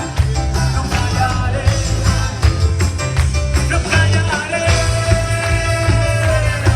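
Live band playing loud, upbeat Christian worship music, with drums keeping a steady beat over heavy bass. A long held note comes in about halfway through.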